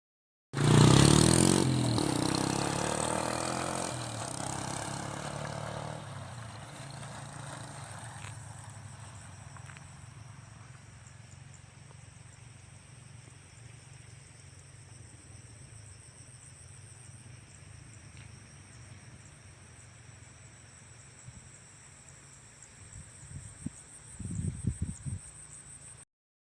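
An engine running, loud at first and fading away over several seconds, with a steady high-pitched trill throughout and a few low knocks near the end.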